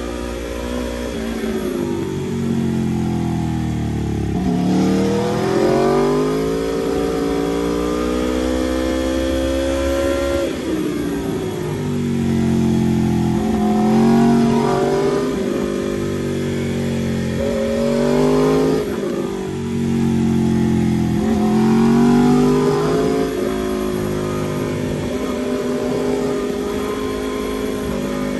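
Aprilia RSV4 RR's V4 engine under way, revving up and down through a run of corners: the pitch climbs under throttle and falls back again, sometimes abruptly, about six times.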